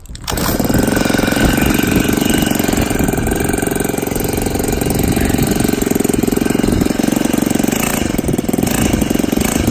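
Four-stroke push-bike engine kit pull-started, catching about a third of a second in and then running steadily, exhausting through a muffler taken off a 26cc Baja two-stroke. The engine still starts readily despite sand and sea-salt corrosion.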